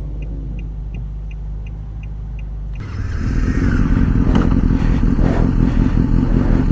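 Stalled motorcycle engine, a 2007 Kawasaki ZX-6R's inline-four, quiet at first under a low hum and faint ticking, then restarting abruptly about three seconds in and running rough and uneven, slowly getting louder.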